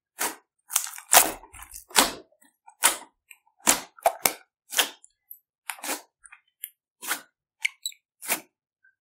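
Slime being squeezed and worked by hand, giving a string of sharp pops and crackles, about a dozen at an uneven pace with short silences between.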